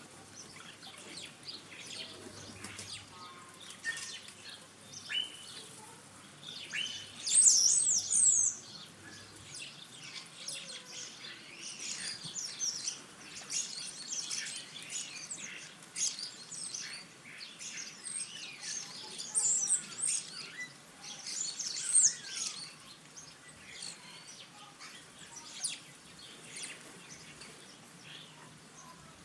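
Small garden birds calling and twittering, a busy mix of short high chirps, with a burst of louder, rapid twittering about seven seconds in and another loud call a little past the middle.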